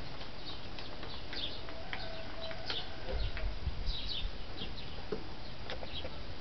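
Birds chirping in short, scattered calls, with a low rumble growing stronger about halfway through.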